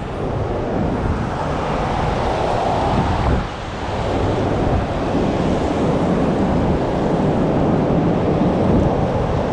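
Strong blizzard wind buffeting the microphone: a loud, rough rushing noise that dips briefly about three and a half seconds in.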